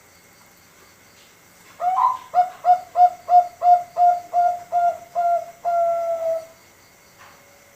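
Young male Bangkok-line zebra dove (perkutut bangkok) singing one song phrase: an opening note, then a quick run of about ten short coos at roughly three a second, ending on one longer drawn-out coo.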